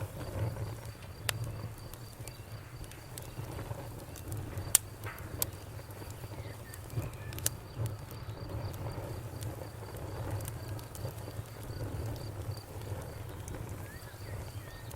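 Campfire burning with a steady low rumble and scattered crackles, a few sharp pops standing out. A faint, even insect chirping runs underneath.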